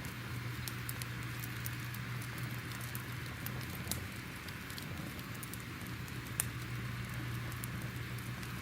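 A wood fire crackling: irregular sharp pops and snaps over a soft hiss, with a low steady hum underneath.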